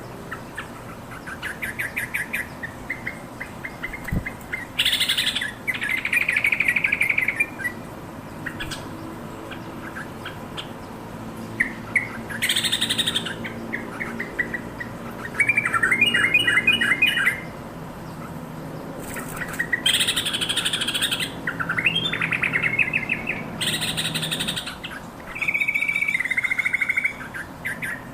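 Yellow-vented bulbul calling: short, quick chattering phrases repeated every few seconds, mixed with a few harsher, scratchy notes.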